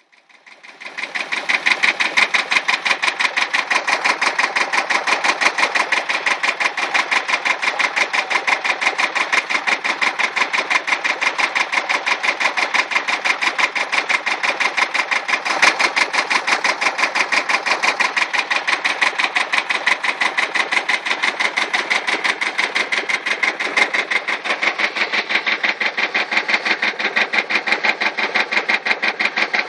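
Tractor engine running steadily, fading in over about the first second. Its firing makes a rapid, even beat that hardly changes.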